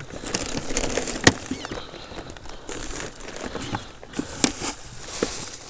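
A plastic bag crinkling and rustling as it is handled, with irregular crackles and a few sharp clicks, the loudest about a second in.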